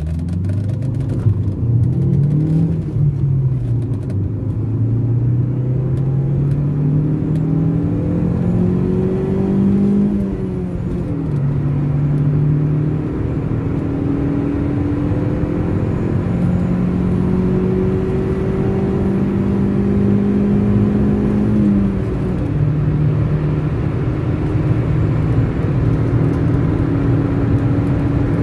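Chevrolet Corsa Hatch 1.4 Econoflex's four-cylinder engine, heard from inside the cabin, accelerating hard through the gears on a top-speed run. The engine note climbs and then drops at each upshift, near the start, about ten seconds in and about twenty-two seconds in, then holds steady in top gear over road and wind rumble.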